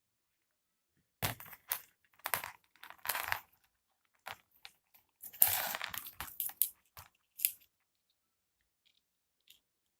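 Irregular crinkling and rubbing handling noises in short bursts, starting about a second in and dying away about two and a half seconds before the end. The loudest burst comes a little past the halfway point.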